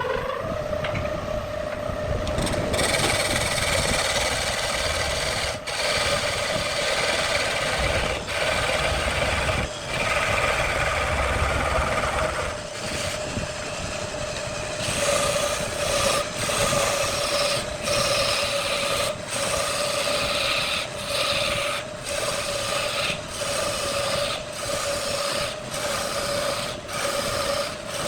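Wood lathe motor running with a steady hum while a turning tool scrapes and cuts the spinning wood. In the second half the cutting noise breaks off briefly about once a second.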